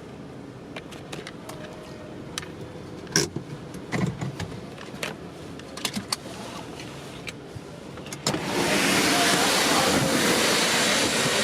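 Scattered clicks and knocks from someone handling things in and around a parked car. About eight seconds in, a loud steady rushing noise starts suddenly and keeps on, like a door opening onto loud car-wash machinery or blowers.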